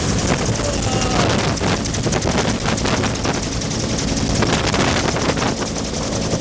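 Bell UH-1 Huey helicopter in flight: the two-bladed main rotor beats in a rapid, even rhythm over a steady engine drone.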